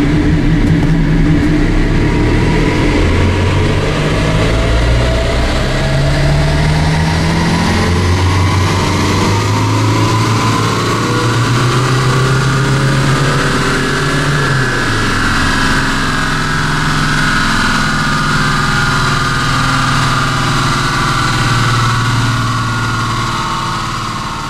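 Car engine pulling under full load in fifth gear on a chassis dynamometer, heard from inside the cabin, its pitch climbing steadily as the revs rise. Partway through, the plug-in tuning box is switched on the fly from no extra power to its high-power program 7. The sound fades out near the end.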